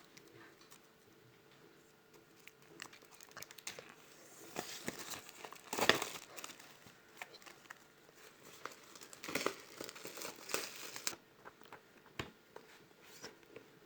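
Crinkling and crackling of something being handled, in irregular bursts and clicks, loudest about six seconds in and again between about nine and eleven seconds.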